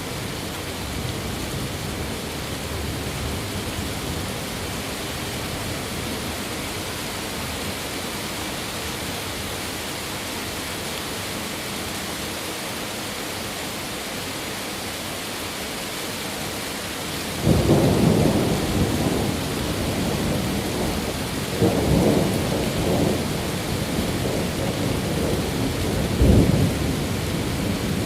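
Steady rain hiss, then about two-thirds of the way in a sudden, loud thunderclap breaks into a long rumble, with two further cracks of thunder rolling on over the rain.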